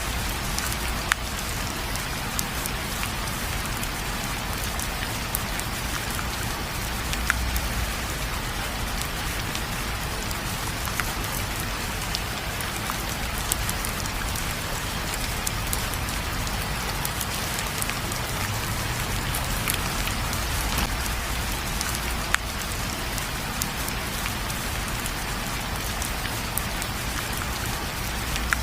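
Steady rain falling on a surface: a dense, even hiss with scattered sharp taps of single drops and a low rumble underneath.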